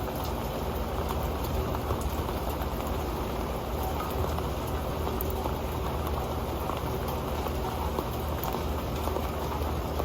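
Steady rain falling on an old pan, a dense, even patter of drops ticking on the metal.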